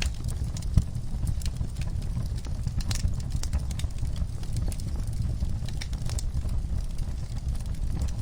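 Wood fire burning in a fireplace: a steady low rumble of flames with scattered crackles and pops, two of them sharper, one just after the start and one about three seconds in.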